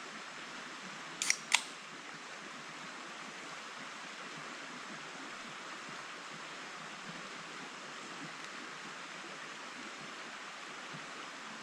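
Steady rush of a flowing forest stream, with two sharp clicks in quick succession about a second in.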